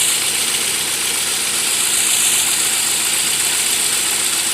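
Saab 9-3's engine idling steadily with a misfire, caused by a dead ignition coil.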